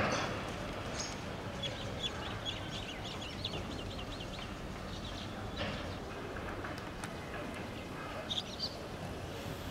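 A small bird chirping in outdoor ambience: a quick run of short high notes starting about a second and a half in, and a few more notes near the end, over a steady low background hum.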